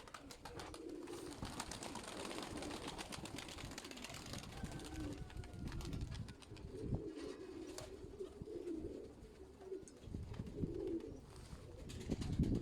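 Sickle-winged pigeons cooing: a run of low coos, repeated with short gaps, over small scattered clicks and scuffs.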